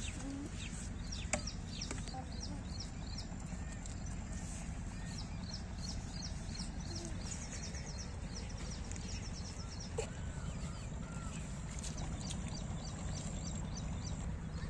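Small birds chirping in quick repeated runs over a steady low rumble.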